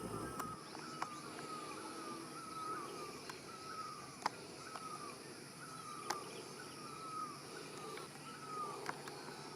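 A bird repeating a short, high call that falls in pitch, about three calls every two seconds, over faint outdoor background hiss, with a few sharp clicks.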